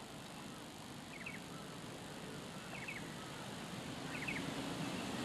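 Faint outdoor ambience: a bird gives a short, quick chirping call three times, about every second and a half, over a soft steady hiss.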